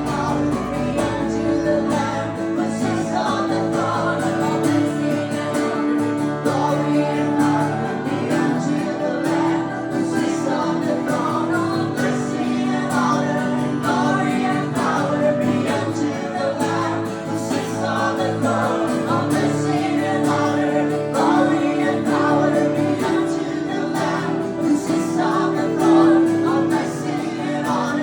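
Live acoustic worship music: voices singing a sustained, slow melody over an acoustic guitar.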